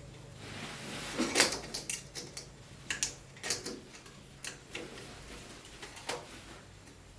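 A series of irregular light knocks and clicks, about a dozen over several seconds, the loudest about a second and a half in, like hard objects being handled and set down.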